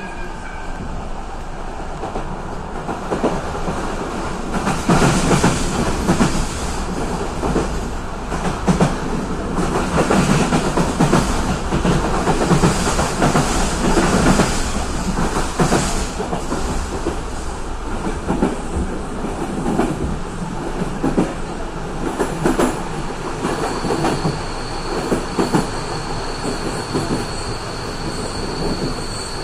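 Passenger train in motion heard from inside the carriage: steady running noise of wheels on rails with scattered knocks, loudest for several seconds in the middle. A thin, steady high-pitched tone joins in near the end.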